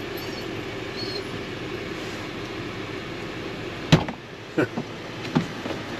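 A door shutting with one loud thump about four seconds in, followed by a few lighter knocks, over a steady hum that drops away once the door is shut.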